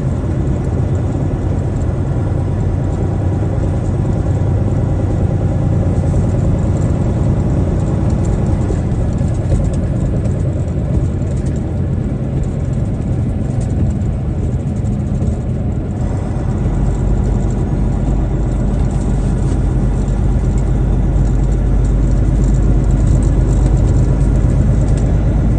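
Truck running at road speed, heard from inside the cab: a steady engine drone and tyre and road noise, with the low rumble growing heavier about two-thirds of the way through.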